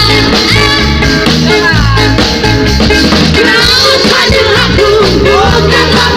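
A band playing a pop-rock song, a singer's voice over a steady bass and drum beat.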